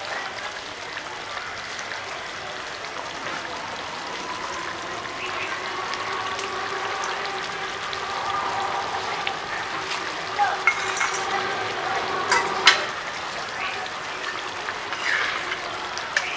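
Prawn curry sizzling as it fries in a black iron wok over a wood fire, with a few sharp clicks and knocks about two-thirds of the way through.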